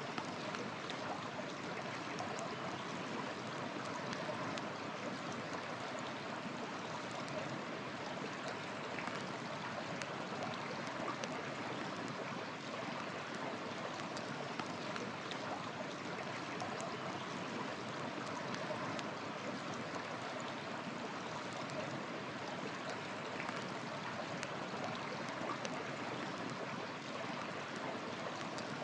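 River water running steadily, with faint, scattered small crackles of a wood fire.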